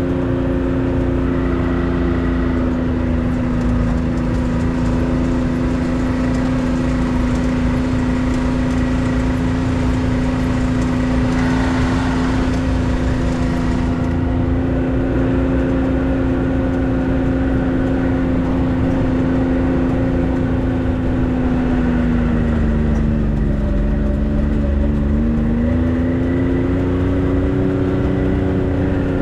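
A 4x4's engine running steadily under way. Its note dips lower a little after twenty seconds in and rises back a few seconds later, and a rushing hiss joins in for a few seconds partway through.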